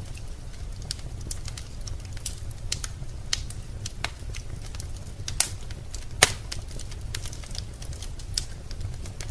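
Wood fire in a fireplace crackling, with irregular sharp pops and two louder snaps about halfway through, over a steady low rumble of the burning.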